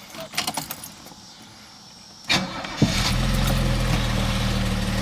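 Keys clicking in the ignition, then the starter of a 1978 Mercedes-Benz 280SE's 2.8-litre DOHC inline-six (M110) cranks for about half a second and the engine fires near the three-second mark, settling straight into a steady idle.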